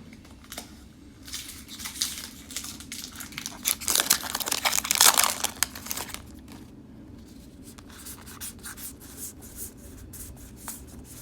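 A Magic: The Gathering booster pack's foil wrapper being torn open and crinkled, loudest about four to five seconds in, then short light clicks of the cards being handled.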